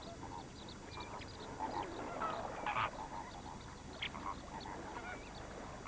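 A large flock of flamingos calling: many short, goose-like honks overlapping continuously.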